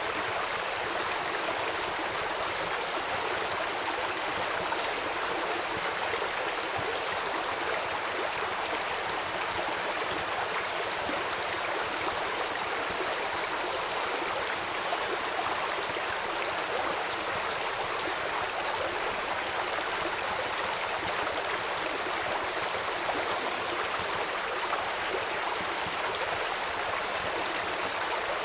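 Steady rush of a flowing stream, an even wash of water noise, with a faint high chirp repeating through the first third and again near the end.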